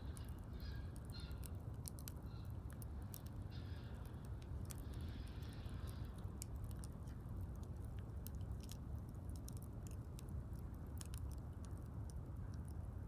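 Wood fire crackling, with frequent small sharp pops and snaps over a steady low rumble.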